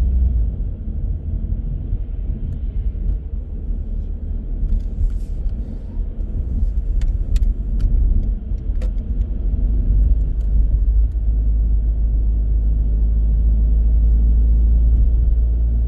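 A car driving on city streets: a steady low rumble of tyres and engine, with a few faint clicks around the middle.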